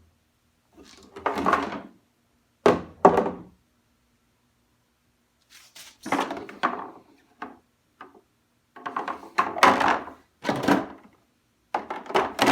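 Plastic refrigerator organizer bins being handled and set down: knocks and thunks in about five short bursts with pauses between.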